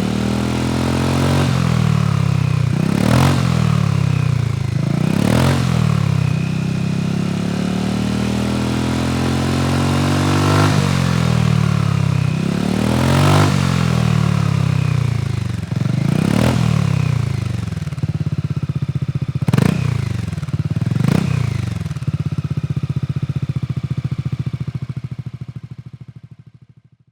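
Honda Forza 250 scooter's single-cylinder engine through a BEAMS GT-CORSA full exhaust, idling and revved in about eight quick throttle blips. Each blip rises in pitch and drops back to idle. The sound fades out near the end.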